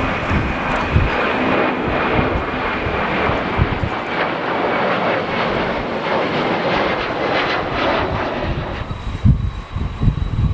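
Airliner engines running as the aircraft passes, a broad steady noise that fades about nine seconds in. Strong gusty wind buffets the microphone with low thumps throughout.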